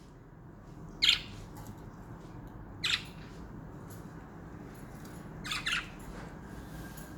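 Pet budgerigars squawking: short, sharp calls about a second in, near three seconds, and a quick double call around five and a half seconds, with faint softer chirps between.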